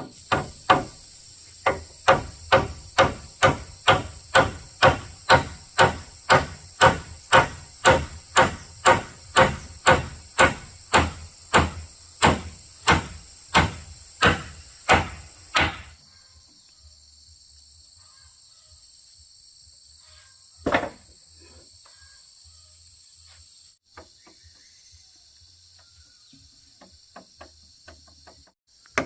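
Hammer strikes on wood, fast and evenly paced at about two a second, stopping about sixteen seconds in, with one more strike a few seconds later. Insects keep up a steady high-pitched buzz.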